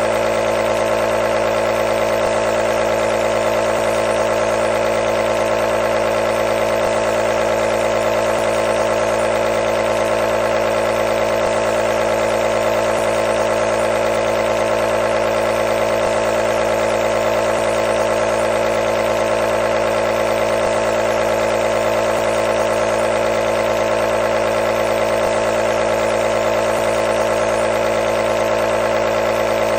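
Nebulizer compressor running continuously with a steady, unchanging mechanical hum.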